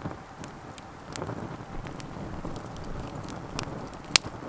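Campfire crackling: scattered sharp pops and snaps, the loudest about four seconds in, over a steady rustling hiss.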